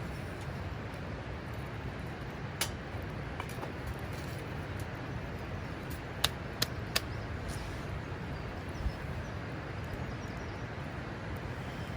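Campfire crackling: a handful of sharp, scattered pops over a steady low rush. Three of the pops come close together about halfway through.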